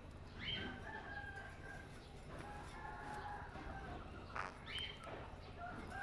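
Pet parrots calling: steady whistled notes, with a sharp rising chirp about half a second in and another near the end.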